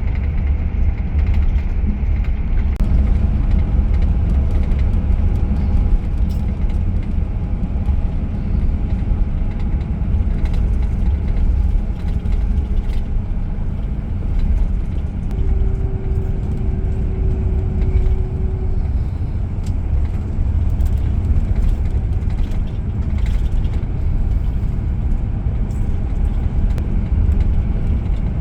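Steady low rumble of a moving Scania K410IB coach, engine and road noise together, with a faint brief whine a little past halfway.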